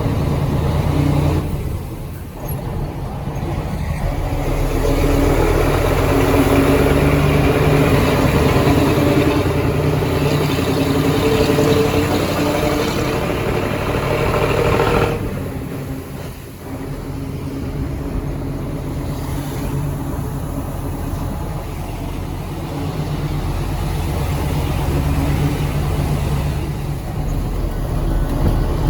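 Dump truck's V8 engine running with a loud exhaust: it swells a few seconds in and holds strong for about ten seconds, drops off sharply about halfway through, then runs on steadily.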